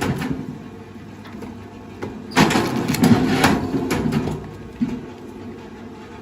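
Heavy machine's engine running steadily, with a louder burst of mechanical noise about two and a half seconds in that lasts nearly two seconds.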